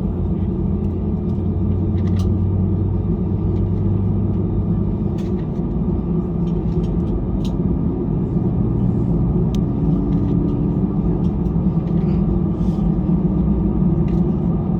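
Airbus A320 cabin noise: a steady low rumble and hum of the CFM56 engines at idle as the airliner taxis before takeoff, with a few faint clicks.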